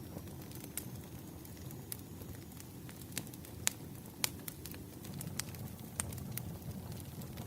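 Wood fire crackling: irregular sharp pops and snaps over a low steady rumble, with a few louder snaps around the middle.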